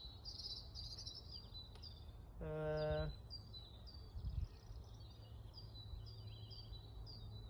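Small birds chirping in short repeated high calls over outdoor background noise. About two and a half seconds in, a steady pitched tone sounds for about half a second, the loudest thing here, and a low hum runs through the second half.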